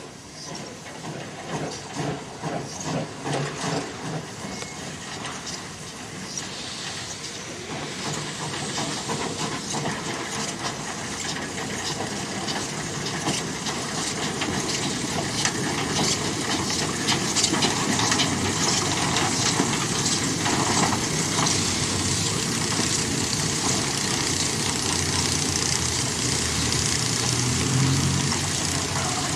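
Narrow-gauge steam locomotive working: a few rhythmic exhaust beats in the first few seconds, then a steady hiss of steam with rapid clicking that grows louder as it nears and stays loud.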